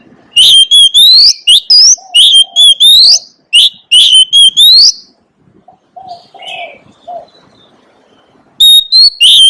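Oriental magpie-robin singing loudly: phrases of clear whistled notes, several sweeping up in pitch, given three times in quick succession, then a pause of a few seconds before the song starts again near the end.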